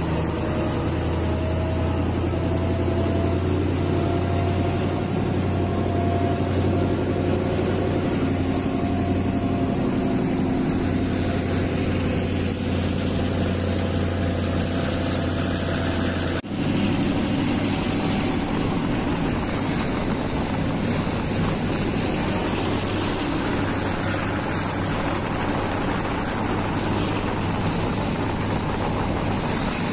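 Train running, heard from an open window: a steady mix of engine, wheels on rail and rushing air, with the engine's pitch rising slowly over the first few seconds as the train gathers speed leaving the station. About halfway through the sound changes abruptly to a similar steady running noise.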